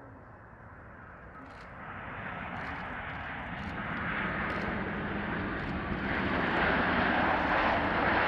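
Wide-body airliner's jet engines on final approach to landing, a steady jet noise growing louder as the aircraft nears.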